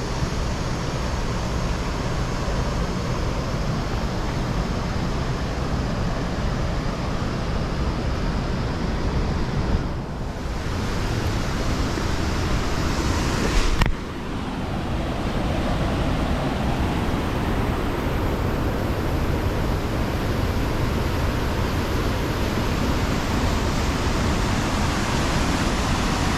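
Waterfall roaring: a steady rush of falling water. It changes abruptly twice, about ten and fourteen seconds in.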